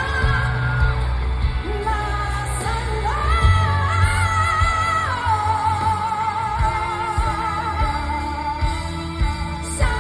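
A live pop ballad, sung over a band. About halfway through, the singer's voice climbs and then holds one long note with vibrato.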